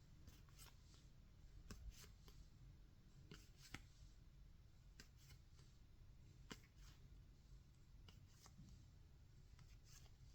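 Faint, irregular clicks and flicks of baseball trading cards being handled and flipped one after another by hand.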